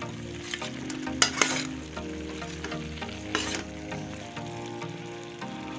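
Potatoes and cauliflower in masala sizzling in a pan while a steel ladle stirs them, with scrapes of the ladle against the pan. The loudest scrapes come a little after a second in and again past three seconds.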